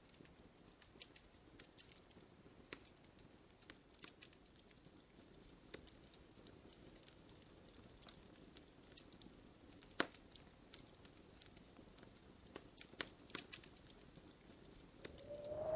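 Wood fire crackling softly in a fireplace: scattered sharp pops and ticks over a low hiss, with one louder pop about two-thirds through and a brief whistling swell near the end.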